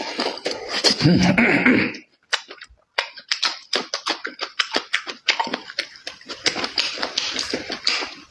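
A person eating noisily with the mouth: a short voiced murmur about a second in, then a quick run of wet chewing and lip-smacking clicks.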